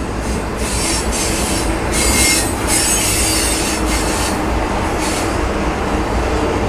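Norfolk Southern intermodal freight train's container and trailer cars rolling past at close range: a steady low rumble of wheels on rail, with a harsh high-pitched wheel screech that swells and fades every second or so.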